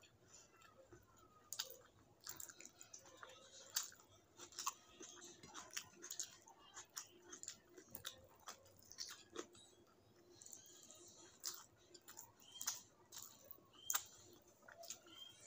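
Close, wet chewing of a mouthful of rice and greens, with sharp lip smacks and mouth clicks at irregular intervals, a sharper smack about four seconds in and another near the end.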